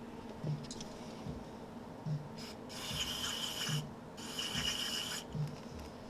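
Aerosol can of electrical contact cleaner spraying in two short hissing bursts, the first about two and a half seconds in and the second just after, cleaning out a wiring connector.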